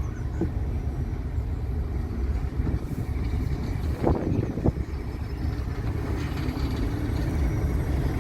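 Heritage diesel locomotive running with a steady low rumble, with two short knocks about four seconds in.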